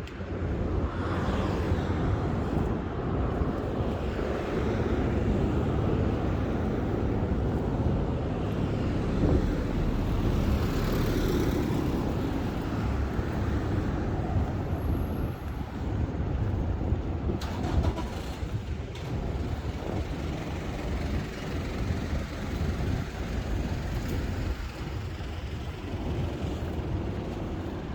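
Steady road traffic noise from passing cars and trucks, swelling as a vehicle goes by about ten seconds in.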